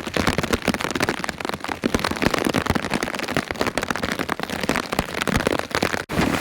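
Heavy rain with large drops striking close by, a dense crackling patter of sharp ticks. It cuts out briefly about six seconds in.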